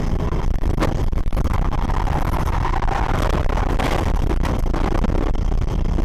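A moving car's steady road and engine rumble, with a few brief sharp knocks about a second in.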